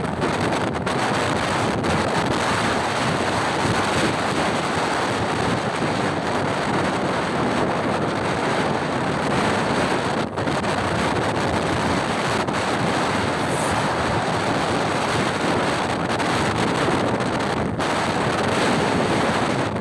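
Heavy wind buffeting the microphone of a moving motorcycle: a steady rushing noise that hides any clear engine note.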